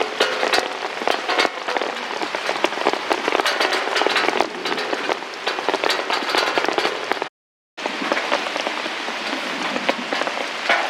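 Heavy rain falling, with a dense patter of sharp drop impacts. It cuts out completely for about half a second near seven seconds in, then resumes.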